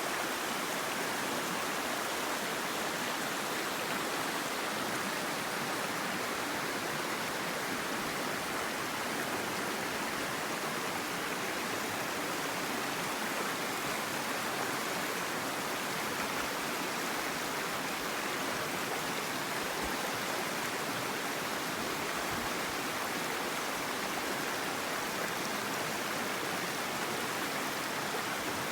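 Mountain stream water rushing over rocks in a steady, unbroken wash.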